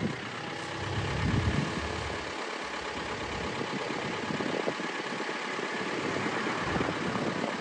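A vehicle's engine idling, a steady running noise with no clear events.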